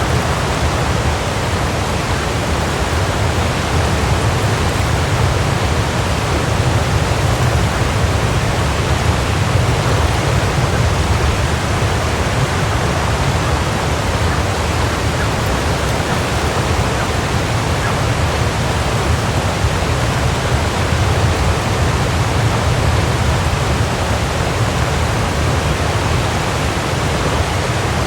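Waterfall: a steady, even rush of falling water, heaviest in the low rumble.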